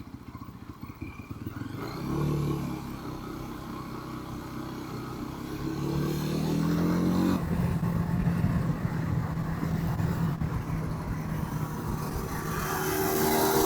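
Motorcycle engine heard from the rider's bike on slow, winding turns. The revs climb about six seconds in, fall sharply at a gear change a second and a half later, and the engine then runs steadily. Near the end a louder rising engine note comes in with a rush of wind.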